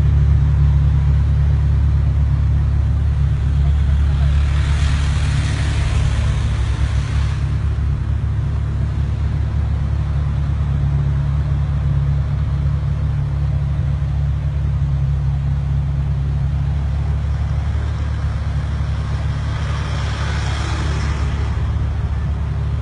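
Car engines idling close by in a low, steady rumble. A rushing noise swells twice, around five seconds in and again near twenty seconds.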